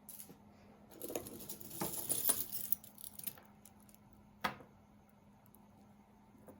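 Loose costume jewelry jangling and clinking as pieces are sorted through by hand, for about two seconds, then a single sharp click a few seconds later.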